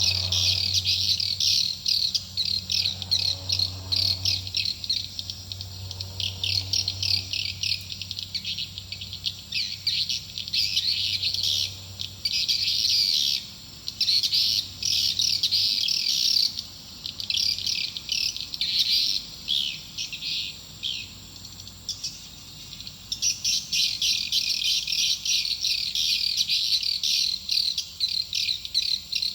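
Swiftlet lure call: dense, rapid twittering chirps of edible-nest swiftlets, the sound played to draw swiftlets into a swiftlet house to nest. The chirping breaks off for short spells about halfway through and again a little later.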